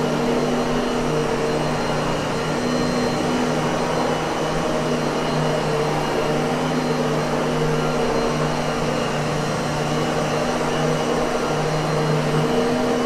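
Miele vacuum cleaner motor running steadily: a continuous whooshing roar of air with a steady motor hum under it.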